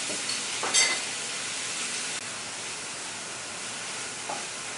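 Pork, shrimp and shrimp paste sizzling steadily in a frying pan, with two brief scrapes of a wooden spatula stirring in the first second.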